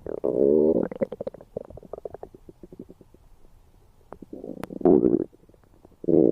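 Stomach gurgling and rumbling: three loud bubbly growls, the first lasting about a second, with small pops and clicks between them.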